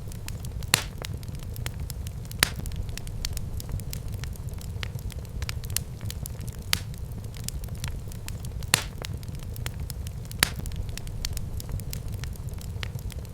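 Fireplace fire crackling, with sharp pops every second or two (about five louder ones) over a steady low rumble of the flames.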